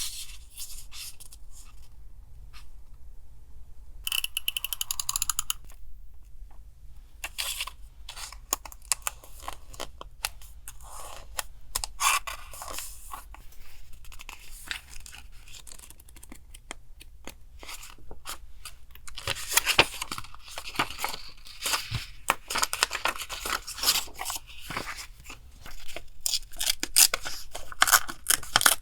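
Paper being worked by hand for a collage: scissors snipping through paper, with tearing and crisp rustling of the sheets, in irregular runs of sharp clicks and rasps that grow busier in the second half.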